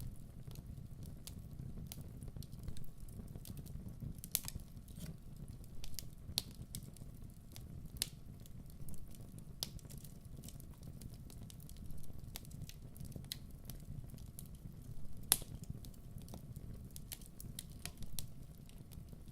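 Wood fire crackling: irregular sharp pops and snaps over a low steady rumble, with one louder pop about fifteen seconds in.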